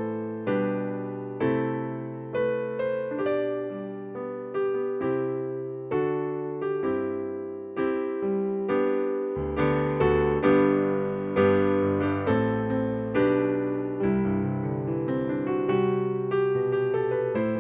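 Kurzweil PC4 keyboard played solo with an electric piano sound, slow chords struck about once a second, each decaying before the next.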